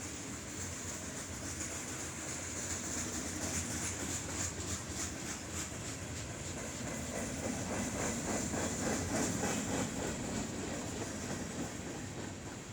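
CSX freight train rolling past, its wheels clicking steadily over the rail joints, a little louder around the middle.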